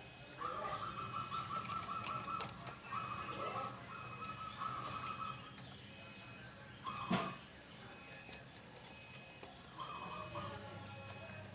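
Zebra dove (perkutut) song: a series of rapid, pulsing staccato cooing phrases. The longest runs about two seconds, a short one comes in the middle, and another arrives near the end.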